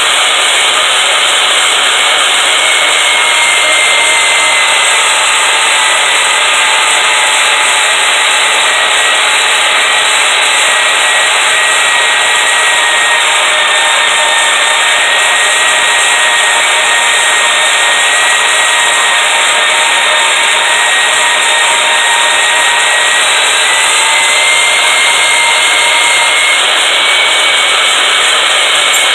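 A power tool cutting through quarter-inch steel flat bar, running loud and steady. Its motor whine sags slightly in pitch under load for most of the cut and climbs back near the end.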